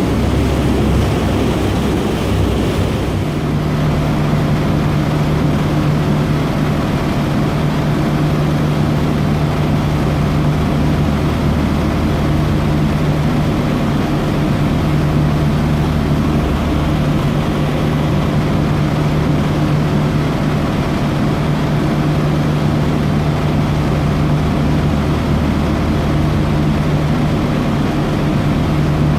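Dubai Ferry's engines running steadily under way: a low, even drone over the rush of water and air. A steady hum joins in about three seconds in.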